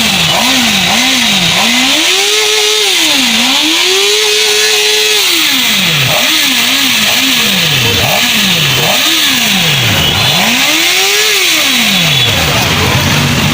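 Superbike's engine being revved hard over and over, with quick short blips between longer held revs. It drops back toward idle near the end.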